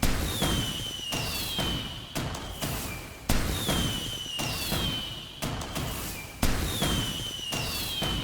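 Fireworks going off: a loud bang about every three seconds, smaller pops and crackles between them, and whistles sliding down in pitch after each bang.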